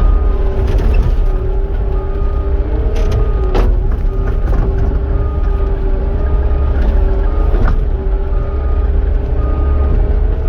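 Cat 259 skid steer's diesel engine running under load with a steady hydraulic drone that wavers slightly, while it spreads rock. A faint short beep repeats about once a second, and there are two sharp knocks, about a third of the way in and again past the middle.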